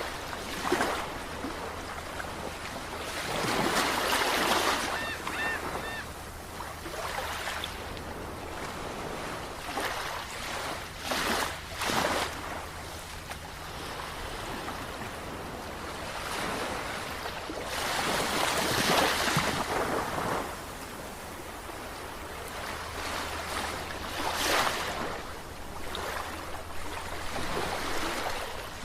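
Sea waves washing in, the surf swelling and easing every few seconds over a steady low hum. A few short, faint chirps come about five seconds in.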